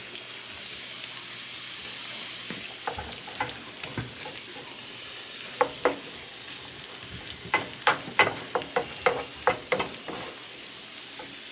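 Sliced mushrooms and red bell pepper sizzling in melted butter spread in a frying pan, stirred with a wooden spoon. The spoon scrapes and knocks against the pan now and then, then in a quick run of strokes in the second half.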